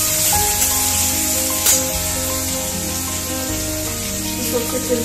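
Food sizzling as it fries in oil in a steel wok, stirred with a steel spatula, with one sharp click about a third of the way in. Background music plays throughout.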